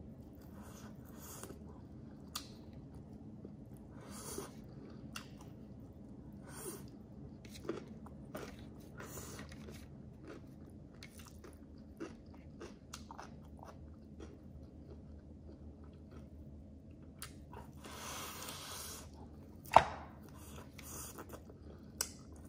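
A person chewing food with many short mouth clicks. A brief rush of noise is followed by a single sharp, louder click near the end.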